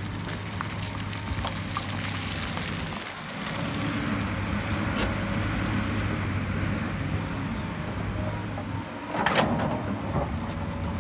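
Hyundai excavator's diesel engine running steadily, with a hiss of dirt and stones moving as it works, and a louder clatter about nine seconds in.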